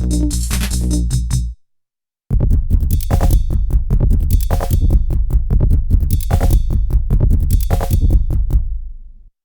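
Nord Drum 3P percussion synthesizer playing a sequenced electronic drum groove on bank B preset sounds. The groove stops about a second and a half in; after a short silence a different pattern starts, then fades out near the end.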